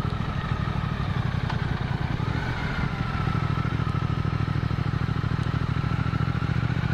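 Motorcycle engine running steadily while being ridden, its even, rapidly pulsing note picked up by the rider's onboard microphone.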